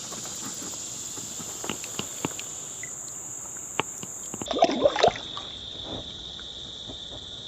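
Insects in the summer riverside vegetation singing a steady high-pitched drone, which drops to a lower pitch about four and a half seconds in, over the trickle of creek water. Small splashes and sloshing come from water around the wading angler, loudest about five seconds in.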